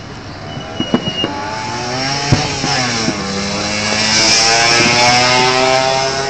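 Motorcycle riding past close by, its engine note shifting in pitch and growing louder to a peak about four seconds in before easing off. A few sharp firework bangs sound in the first couple of seconds.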